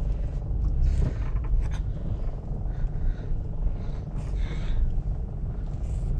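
Steady low rumble of a car's engine and road noise heard from inside the moving car, with a few brief hisses over it.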